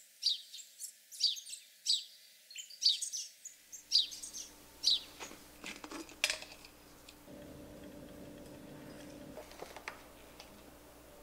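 Small birds chirping, a run of short high calls about one or two a second through the first five seconds or so. After that come a few light clicks of a white plastic soap-dispenser pump top being handled.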